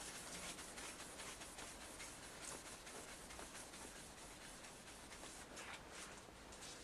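Faint, irregular scratchy rubbing of a cloth working paint cutting compound over motorcycle exhaust downpipes by hand.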